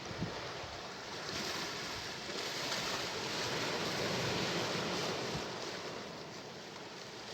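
Sea waves washing ashore: one wave swells in about a second in, peaks midway and fades away near the end. There is a brief knock just after the start.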